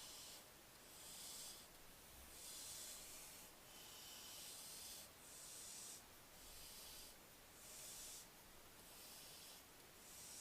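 Young barn owl giving faint, repeated wheezy hissing calls, the 'snoring' typical of barn owl chicks, about one hiss every second.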